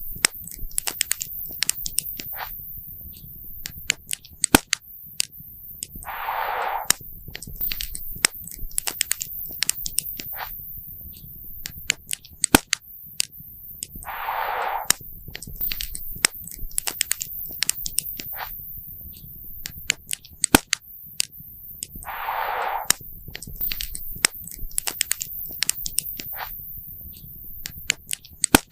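Wood fire crackling, with frequent sharp pops over a low rumble. A brief hissing rush comes about every eight seconds.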